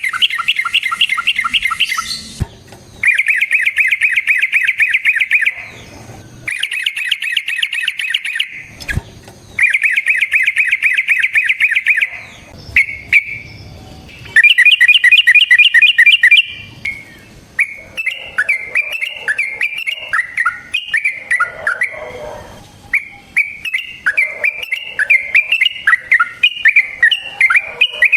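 Yellow-vented bulbul (trucukan) singing long rapid rolling trills, several runs of two to three seconds each with short breaks between. From about halfway through it turns to quicker, varied chattering phrases.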